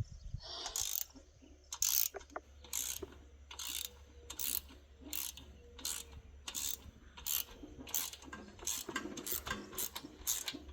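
Socket ratchet wrench with a 9 mm socket clicking in repeated short strokes as it turns a bolt on the tiller's Kohler engine, the strokes coming quicker near the end.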